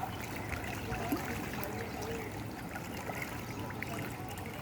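Pond water trickling steadily, with small scattered ticks and splashes at the surface.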